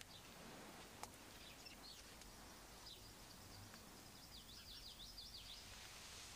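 Near silence with faint bird chirps: quick high twittering sweeps, thickest in the middle, over a low background hiss, and a single small click about a second in.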